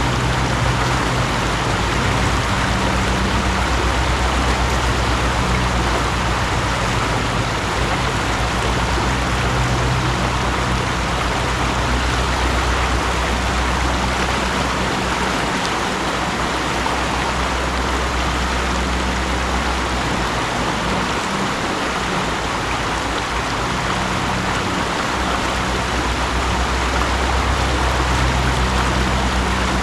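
Mountain stream running steadily, an even rush of water. A low rumble under it drops away for a few seconds past the middle and then returns.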